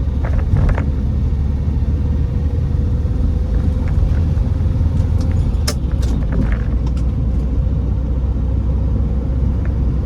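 Ford Taunus V4 engine and road noise heard from inside the moving car: a steady low rumble with a faint steady hum over it. A few light clicks and knocks come around the middle.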